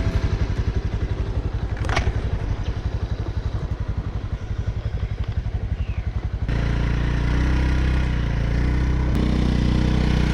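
Vehicle engine running at idle with an even, rapid pulse, then running faster and louder from about six and a half seconds in. A sharp click about two seconds in.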